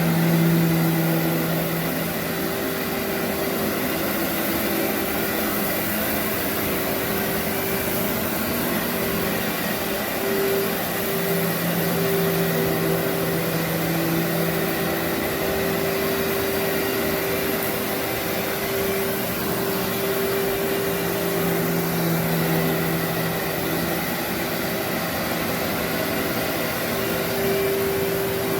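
Workhorse canister vacuum running steadily while pre-vacuuming carpet, a continuous motor and suction noise with hum notes that come and go as the load shifts.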